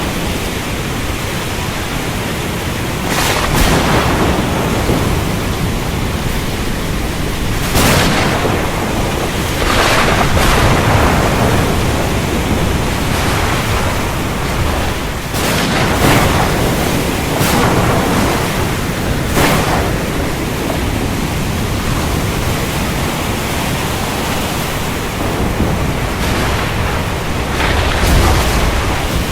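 Heavy rain falling steadily, with sharp cracks of thunder bursting through it about eight times, the last one near the end carrying a deeper rumble.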